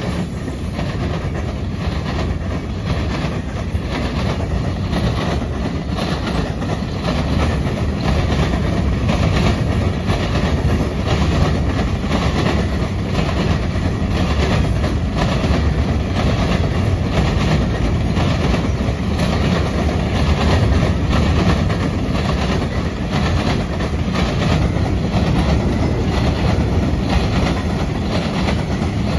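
Freight train of loaded covered hopper cars rolling past: a steady rumble of steel wheels on rail with a regular clickety-clack as the wheels cross rail joints.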